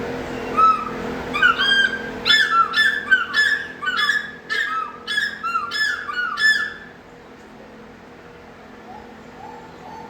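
Red-billed hornbill calling: a series of about a dozen nasal, clucking squawks, roughly two a second, starting about half a second in and stopping about seven seconds in.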